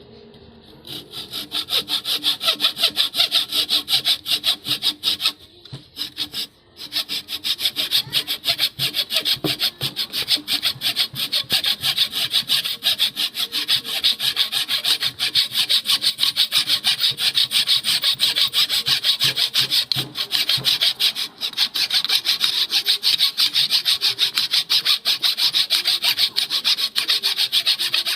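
Hand saw cutting through wood with rapid, even back-and-forth strokes, pausing briefly about five to seven seconds in before sawing on.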